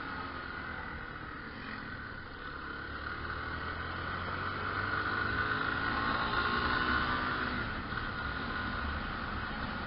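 Motorcycle riding along, its engine running under wind and road noise on the onboard microphone. From about three seconds in, the engine note climbs and grows louder, then eases back near the eight-second mark.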